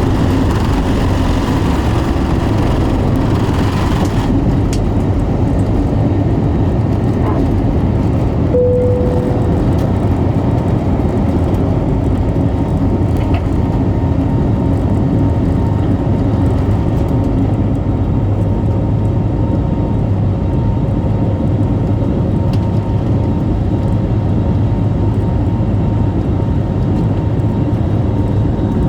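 Airbus A320neo jet engines running at takeoff power, a loud, steady rumble that eases in the highest pitches after a few seconds. A short single tone sounds briefly near the nine-second mark.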